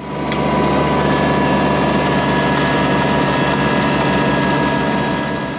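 An engine-driven machine running steadily, with a constant whine over its noise. It fades in at the start and fades out at the end.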